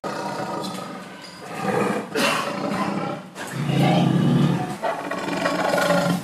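Lion roaring, in several long swells, the loudest about four seconds in.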